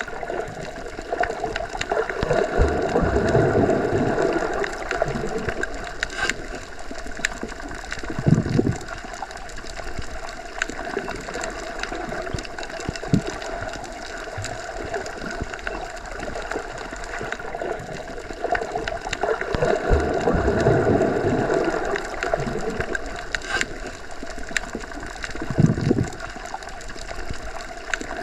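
Underwater water ambience: a steady churning, gurgling wash with a faint hum, swelling twice and broken by a couple of short, low bubbly surges.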